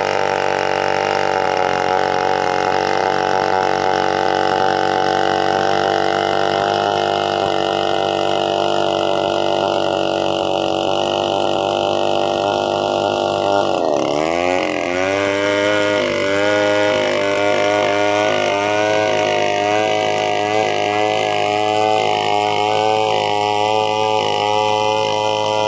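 Chainsaw engine running steadily; about halfway through its pitch dips sharply, then climbs back and wavers up and down.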